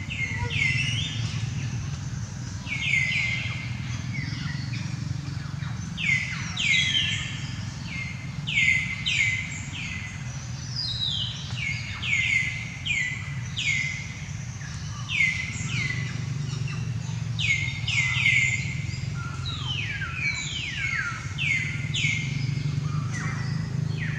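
Bird calls: short chirps that sweep steeply down in pitch, repeated in quick clusters of two or three, over a steady low hum.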